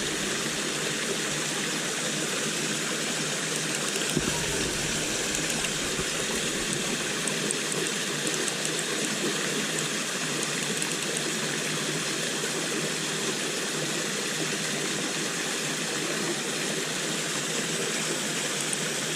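River water flowing steadily, a constant rushing sound.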